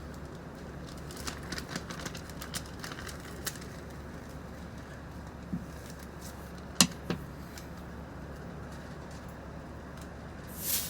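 Steady low hum of a vehicle engine idling, with a run of light clicks early on and two sharp clicks about seven seconds in, then a brief rush of noise just before the end.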